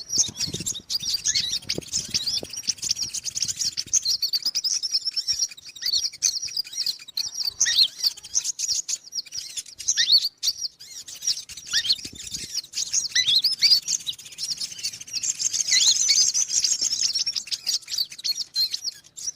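Konin bird call, a rapid, high-pitched run of chirps and twitters that keeps going without a break, played as a lure to draw small wild birds in for trapping.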